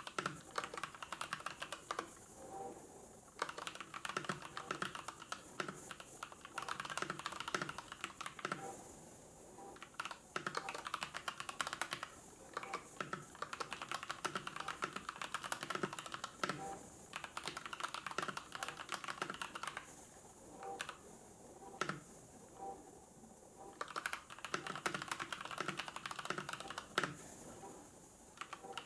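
Typing on a computer keyboard in quick runs of keystrokes, broken by short pauses every few seconds.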